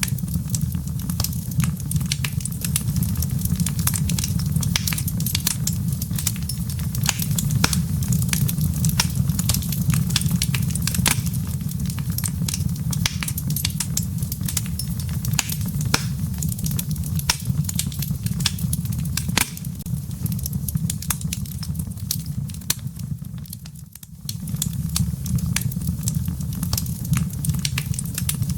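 Wood fire in a fireplace crackling, with many irregular sharp pops from the embers over a steady low rumble. The low rumble drops away briefly a little before 24 seconds in, then returns.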